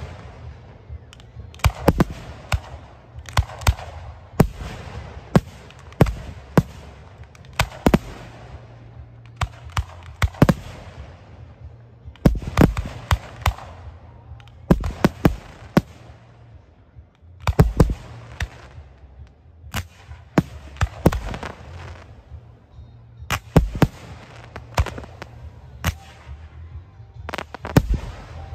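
Aerial fireworks bursting in irregular succession: sharp bangs every second or two, some in quick pairs or clusters, several trailing off over a second or two.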